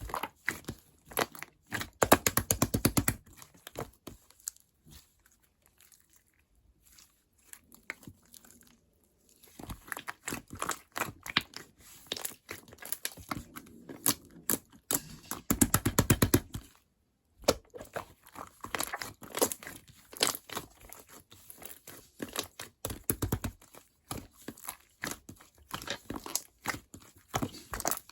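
Butter-and-jiggly mixed slime being squished and pressed by hand: bursts of fast, sticky clicks and pops, with a quiet pause about five seconds in.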